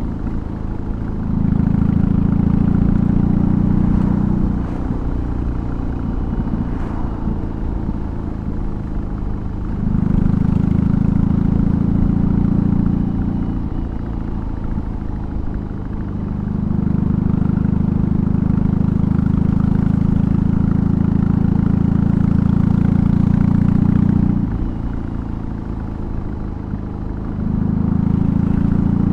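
BMW R18's 1802 cc boxer-twin engine through a custom exhaust on the move, the exhaust note swelling under throttle and dropping back off it in four long pulls, the longest about eight seconds.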